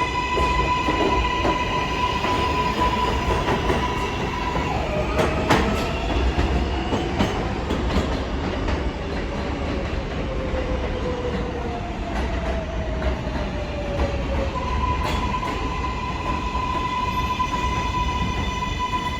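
R188 subway train running through the station, with wheels clacking over rail joints over a steady rumble. A steady high electronic whine is heard at the start and again after the middle. In the middle, motor tones glide downward, with two sharp clacks about five and eight seconds in.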